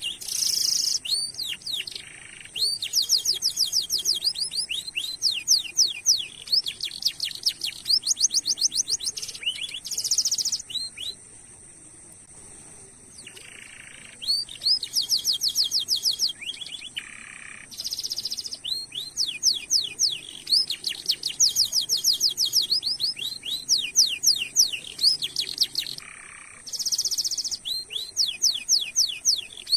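Domestic canary singing in long, fast rolls of repeated high chirps, broken by short harsh buzzy notes, with a pause about a third of the way through. A steady high-pitched tone runs underneath.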